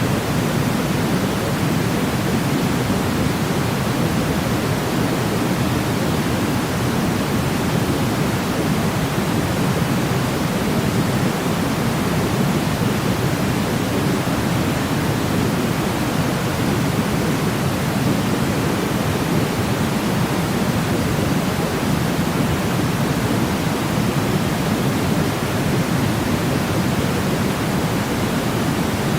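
Steady sleep white noise: an even, unbroken rushing hiss, fuller in the low end than in the highs, with no change over time.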